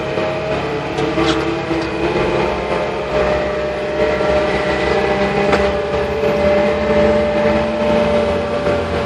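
Tractor engine running steadily, with a steady whine over it and a few light knocks, one about a second in and one about five and a half seconds in.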